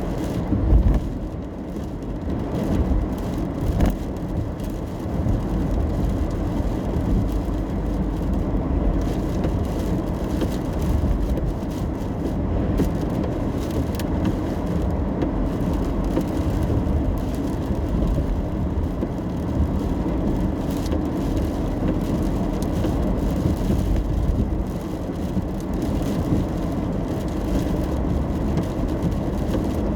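Steady low road rumble inside a moving car's cabin, tyres and engine running at a constant pace, with a few faint clicks.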